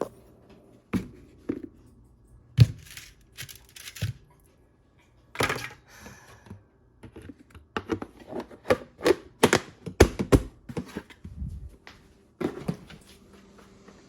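A string of irregular knocks, taps and thuds in a small room, coming more thickly in the second half.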